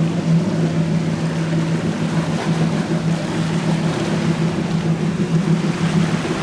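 A motorboat's engines running at a steady low drone, with water rushing and wind noise around it.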